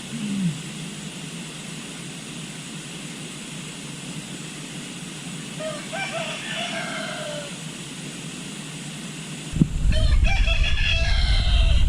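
A rooster crowing twice, about six seconds in and again near the end. A loud low rumble sets in suddenly a little before the second crow.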